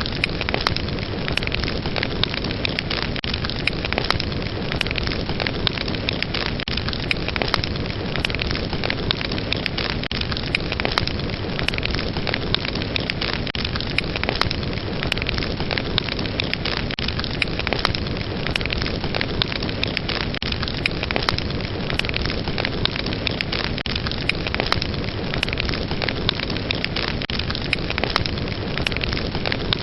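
Fire burning with a steady low rush and many sharp crackles and pops scattered throughout: the crackling of burning wood.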